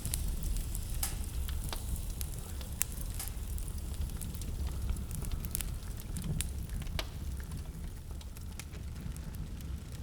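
Wood fire burning in a fireplace, crackling with scattered sharp pops at irregular intervals over a steady low rumble.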